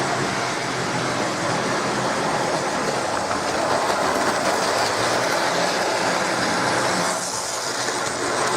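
Electric model train running on its track: a steady motor whir with wheels rattling over the rails, easing briefly about seven seconds in.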